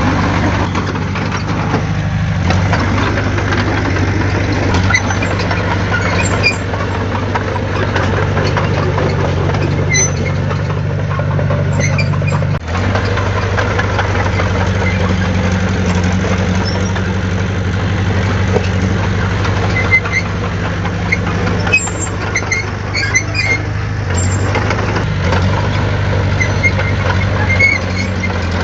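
Heavy diesel earthmoving machinery running steadily, its engine note constant apart from a brief dip about 12 seconds in, with scattered small metallic clinks over it.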